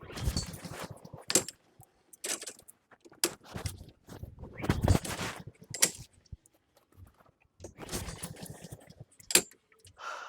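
Honda HRN216 lawn mower's recoil starter being yanked several times, each pull a short rattling whirr of the cord and cranking engine, with no steady running afterwards: the four-stroke engine turns over but fails to catch.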